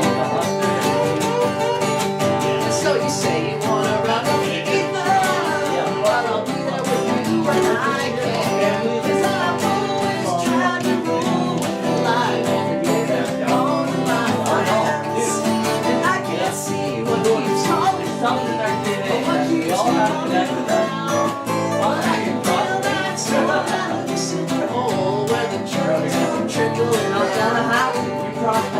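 Acoustic guitar playing an instrumental passage in a country or bluegrass-style tune, with steady, busy picking.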